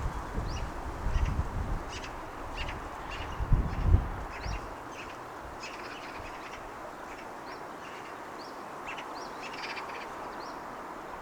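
Birds chirping, many short high calls and quick rising notes scattered throughout, over a steady distant city hum. A brief gust of wind rumbles on the microphone about four seconds in.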